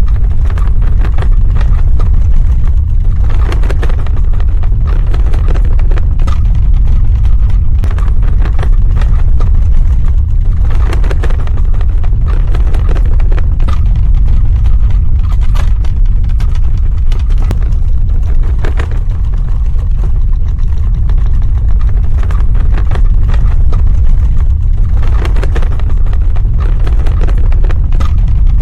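Earthquake sound effect: a continuous deep, loud rumble, with rattling, crackling surges coming and going every few seconds.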